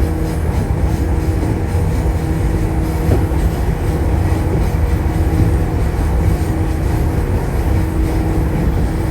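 Shinano Railway 115 series electric train running at steady speed, heard from inside the car: a loud, even low rumble of wheels and bogies with steady hum tones from the traction motors.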